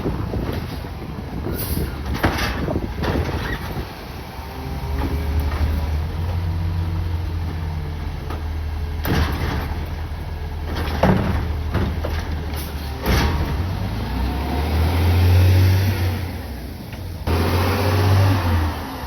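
CNG Peterbilt 520 garbage truck with an automated side-loader body, its engine droning low and swelling twice near the end, with several sharp clanks in the middle and a burst of air hiss near the end.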